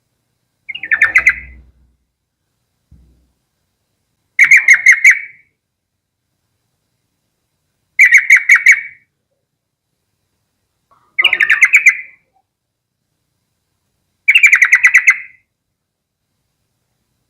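Yellow-vented bulbul singing its bubbly chattering song: five short bursts of quick notes, each about a second long, repeated every three to four seconds.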